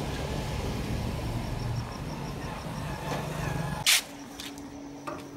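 Low rumble of a car engine running nearby, then a single sharp click about four seconds in, after which only a faint steady hum remains.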